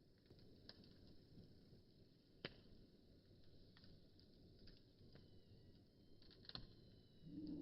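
Faint crackling of a wood bonfire: irregular sharp pops and ticks over a low hiss, with a louder pop about two and a half seconds in and a quick cluster of pops near the end.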